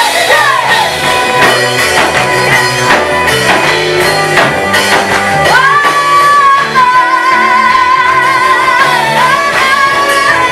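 Praise team singing a Swahili worship song with band accompaniment; from about halfway through, a voice holds one long note.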